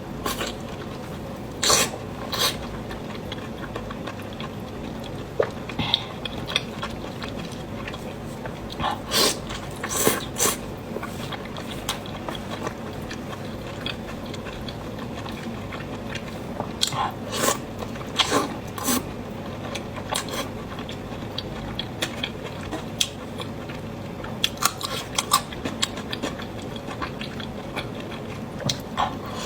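Close-miked eating sounds: biting and chewing, with irregular sharp wet mouth clicks and smacks over a steady background hiss.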